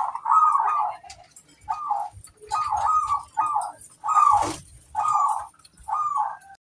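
Zebra dove (perkutut) cooing: a run of short, warbling coos, one about every half second, with a brief faint knock about four seconds in.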